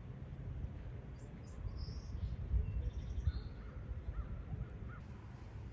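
Faint bird calls, several short high calls and then a few short lower ones, over a steady low rumble.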